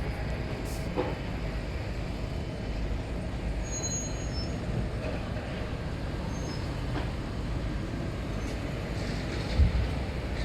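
Steady low rumble of heavy construction machinery, with a single thump near the end.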